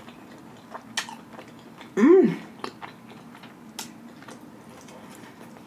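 Close-up chewing of cheesy meatballs, with scattered wet mouth clicks. About two seconds in comes a short hummed 'mmm' that rises and then falls in pitch, the loudest sound.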